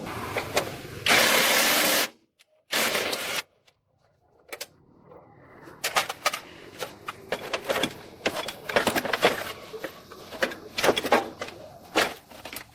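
Two short loud bursts of hissing noise early on, then from about halfway through a run of quick, irregular clicks and taps of workshop hand tools being handled.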